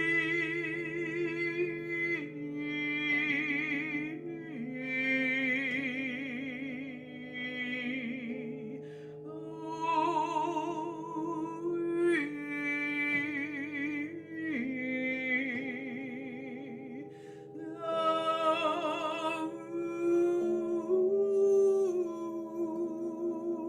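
A woman singing wordless held vowel notes with a wide vibrato, in phrases of one to two seconds, over sustained drone notes that move to a new pitch every few seconds: meditative vocal toning.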